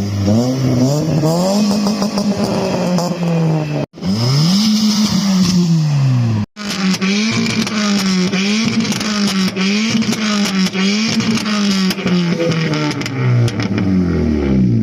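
Car engine revving hard: long rises and falls in pitch, then a run of quick throttle blips about once a second, ending in a long drop back down. The sound breaks off sharply twice early on.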